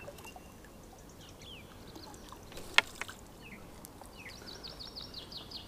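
Small birds chirping and singing, with one bird running into a fast series of repeated falling notes near the end. A single sharp click about three seconds in is the loudest sound.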